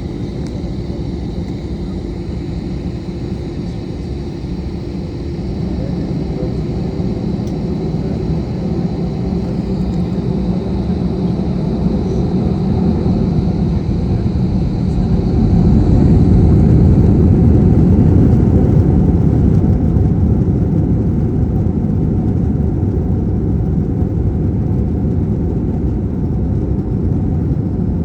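Airbus A321-200 jet engines and runway rumble heard from inside the cabin during the takeoff roll: a steady, heavy low rumble that grows louder, is loudest a little past halfway, then eases slightly, with a faint high whine early on that fades.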